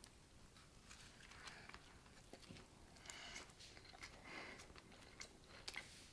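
Faint crunching and chewing of a bite of crispy KFC fried chicken sandwich, a few short scattered crunches.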